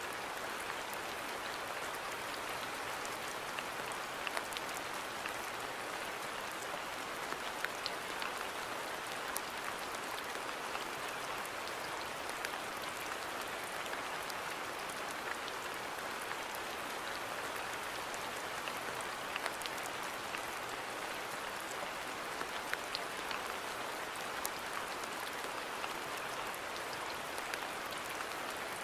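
Steady rain falling on a garden, an even hiss with many individual drops ticking through it.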